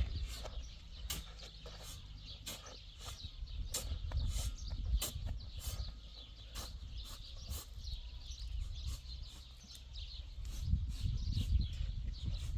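Irregular sharp taps and knocks, a few a second, over a low rumble that grows louder near the end.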